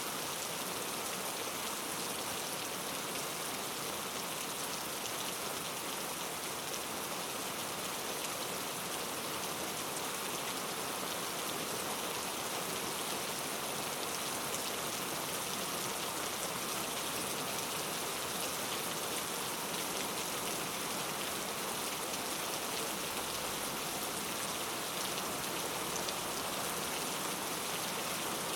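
Steady rainforest rain falling on leaves, an even hiss of dense drops with small drop ticks through it.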